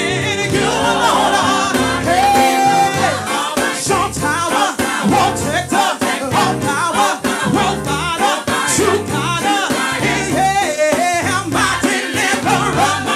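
Live gospel praise-and-worship music: singers with a backing band, bass and drums keeping a steady beat.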